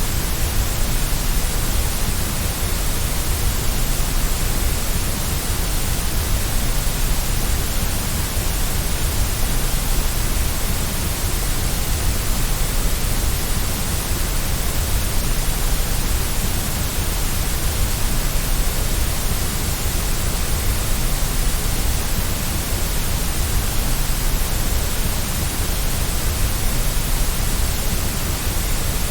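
Steady, unchanging electronic white noise used as a baby sleep aid: an even hiss with a strong deep low end and no breaks or events.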